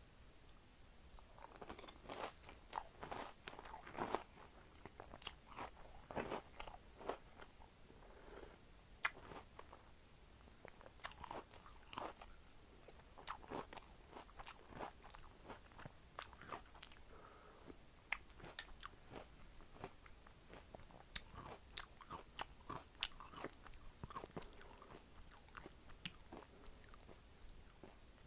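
Close-miked mouth sounds of a person chewing a mouthful of Cinnamon Toast Crunch cereal in milk: irregular crunching bites and chewing that start about a second and a half in and go on steadily.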